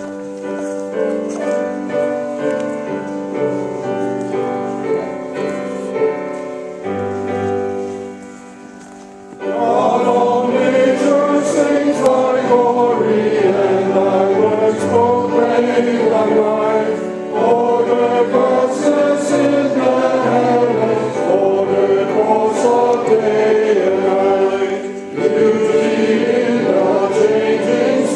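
A hymn begins with held instrumental chords as an introduction. About nine seconds in, a choir comes in louder, singing the hymn with the accompaniment, pausing briefly between lines.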